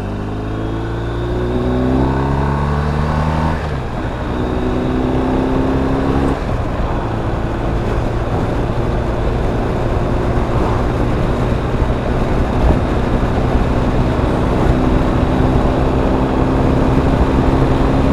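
BMW R 1250 RT's boxer-twin engine pulling away under acceleration, its pitch rising, with gear changes about four and six seconds in, then running steadily at cruising speed under a constant rush of wind and road noise.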